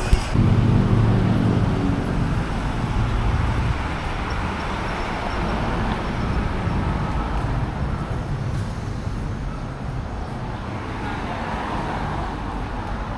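Street traffic. A motor vehicle's engine passes close in the first few seconds, then the steady noise of traffic goes on.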